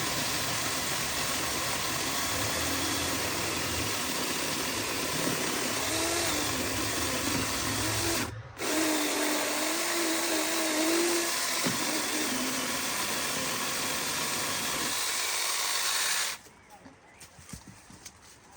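Chainsaw running and cutting through branches, with a wavering motor tone; it breaks off briefly about eight seconds in and stops abruptly near the end, leaving faint knocks and clicks.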